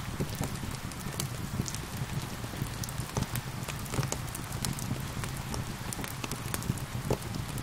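Wood fire crackling with many sharp pops and snaps over a steady rush of gentle rain.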